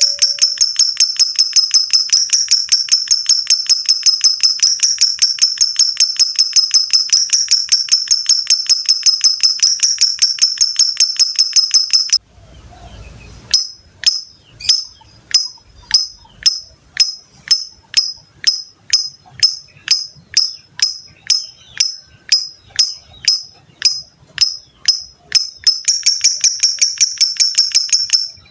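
Lovebird's 'ngekek' song: a long, fast run of sharp, high chattering notes that breaks off about twelve seconds in. After a short pause it resumes as slower single notes, about two a second, and speeds back into the fast chatter near the end.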